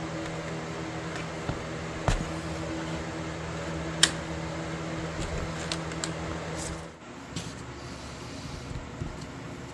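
A small electric motor humming steadily, with a few sharp clicks and taps over it, until the hum stops about seven seconds in.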